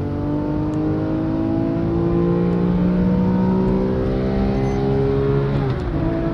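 Porsche sports car engine heard from inside the cabin, pulling hard in gear with its pitch climbing steadily, then dropping at an upshift near the end before it climbs again.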